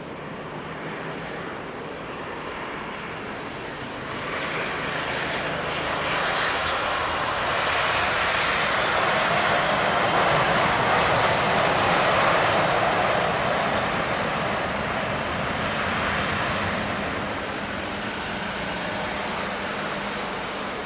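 Jet airliner coming in to land and passing by: its engine noise swells, peaks about halfway, then slowly fades, with a high whine falling in pitch as it goes past.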